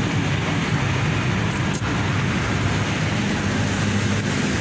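Suzuki Alto's carburetted engine idling steadily with an even hum, freshly tuned with its carburettor cleaned and set.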